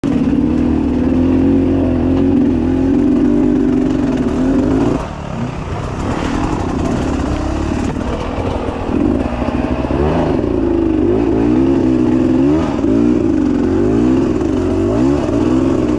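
300 cc two-stroke enduro motorcycle engine held at steady high revs for about five seconds, then dropping off. From about halfway in, it is revved up and down over and over, the pitch rising and falling about once a second.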